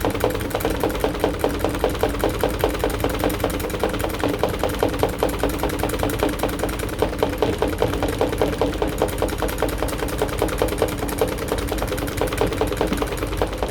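AQUA AQW-DX12M front-loading drum washing machine running mid-cycle: a steady motor hum with a fast, even rattle of about four to five pulses a second, picked up through the machine's top panel.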